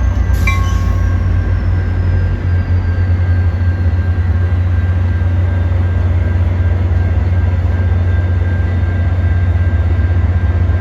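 Metra MP36PH-3C diesel locomotive's 16-cylinder EMD two-stroke engine running steadily with a deep, loud rumble. Under a second in there is a brief high tone with a hiss.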